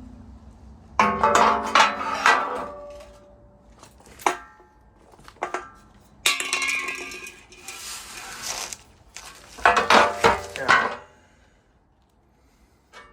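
Metal parts and tools clanking and clinking, with ringing after each strike, and a hiss lasting a couple of seconds midway.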